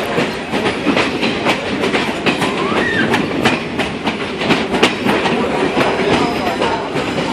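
Passenger train rolling along the track: a steady rumble with frequent sharp clicks of the wheels over the rails.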